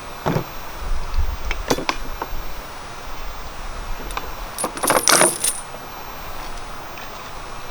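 A few clinks and knocks of metal objects being handled, the loudest a short cluster of ringing clinks about five seconds in.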